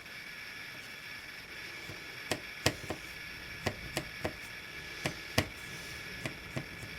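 Light irregular taps and clicks, about a dozen over four seconds, of small card model pieces and a sponge being handled and set down on a work surface, over a faint steady room hum.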